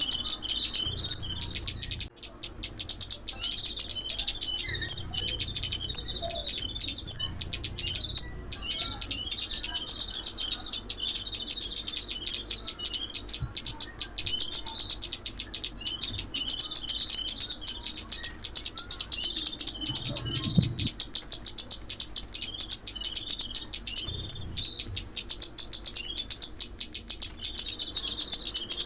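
Sunbird (chim ốc mít) calls from a lure recording used to trap the bird: rapid, high, twittering chirps that run on almost without a break, with short pauses about two and eight seconds in.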